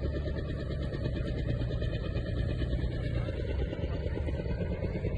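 Transport helicopter in flight, its rotor beating steadily over the engine's drone.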